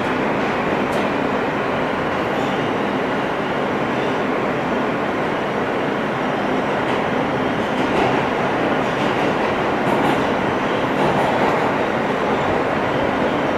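R160 subway car running between stations, heard from inside: a steady rumble of wheels on rail and running gear, with a few faint clicks.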